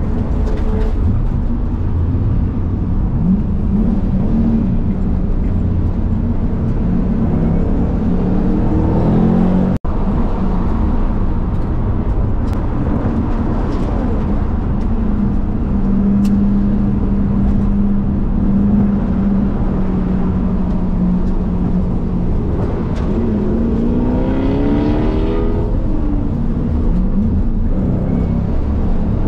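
Ford Mustang engine heard from inside the cabin on track, with tyre and wind noise. The engine note climbs as it accelerates at about a third of the way in and again near the end, holding a steady pitch between. A split-second break in the sound comes just before the first climb ends.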